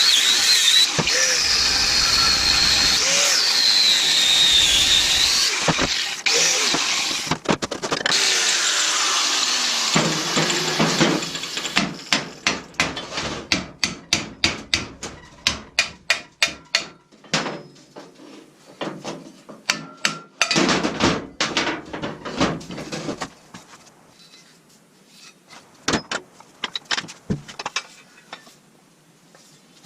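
A power tool working the metal of an old cast iron wood stove, with a squeal that rises and falls, for about the first eight seconds. Then a run of short, sharp strikes or scrapes, about two to three a second, thinning out to a few scattered knocks.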